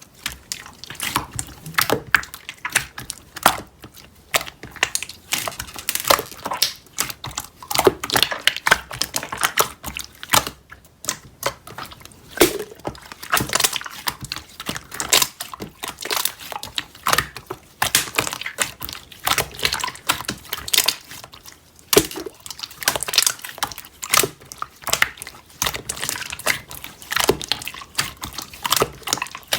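Paper cutouts and stickers being handled: a continuous run of crinkling, rustling and small tapping clicks.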